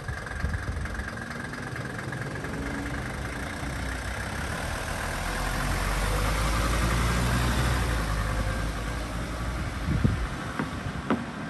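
1983 Mercedes-Benz 300TD estate's five-cylinder diesel engine running as the car pulls away at low speed. It grows louder as the car passes close, then fades as it drives off, with a couple of light knocks near the end.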